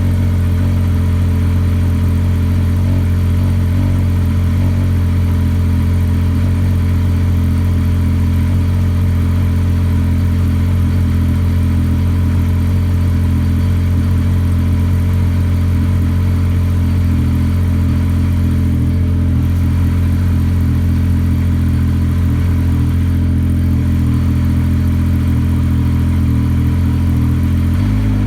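2014 Yamaha Viper RTX SE snowmobile's three-cylinder four-stroke engine idling steadily through an MBRP race can exhaust while it warms up.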